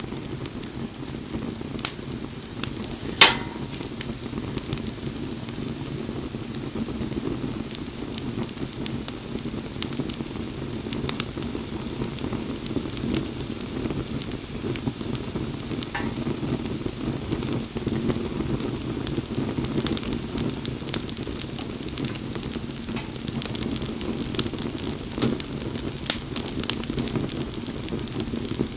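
Wood fire burning: a steady flame noise with frequent small crackles and pops of the burning wood, and one sharp, loud pop about three seconds in.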